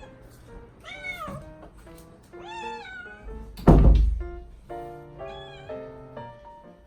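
Cat meowing twice, with a loud thump about halfway through, over background music.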